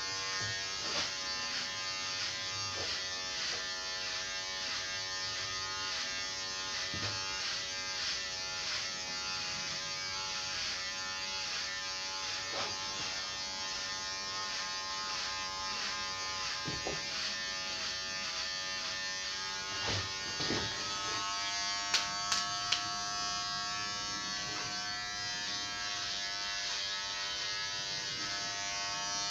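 Electric hair clippers running with a steady buzz, with a few sharp clicks near the end.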